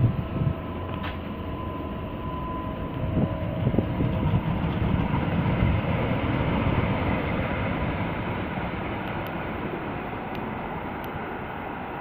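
Tyne and Wear Metrocar train of two coupled units running through the station. A few wheel thuds come about three to four seconds in, and the running sound is loudest around the middle and fades slowly toward the end.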